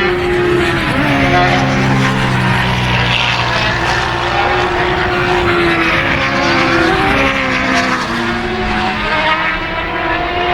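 Several racing motorcycle engines running hard together, their pitches rising and falling as the bikes pass.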